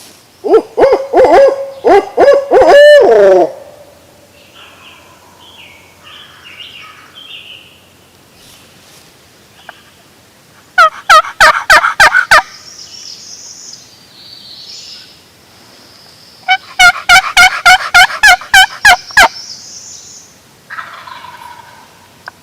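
Hunter's owl-hoot locator call in a quick rhythmic series of hoots with falling ends, used to make a gobbler shout back. Later, two close, loud series of turkey yelps on a turkey call, the first about seven notes and the second about eleven, evenly spaced.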